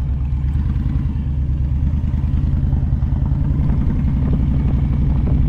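Motorcycle engine running steadily at low speed, a little louder in the second half.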